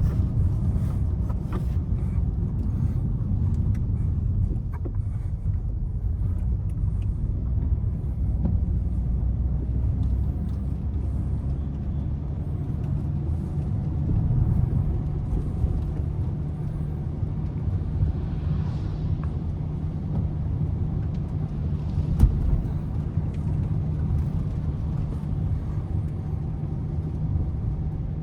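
A car driving through city streets: steady low engine and tyre rumble, with one sharp knock about three-quarters of the way through.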